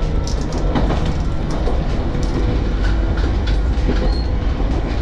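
Wakayama Electric Railway's Ichigo Densha electric railcar running along the track, heard from inside the cab: a steady heavy rumble of wheels on rail with irregular clicks and knocks throughout.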